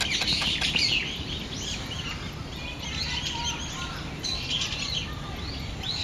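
Several small birds chirping and calling over one another in quick short notes, busiest in the first second and again about halfway through, over a low steady background rumble.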